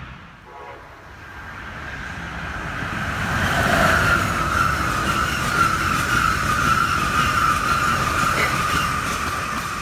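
Amtrak ACS-64 electric locomotive and its passenger cars passing at speed: the rush and rumble of the train build up over the first few seconds and hold loud. A high steady whine rides over the noise and sinks slightly in pitch as the train goes by.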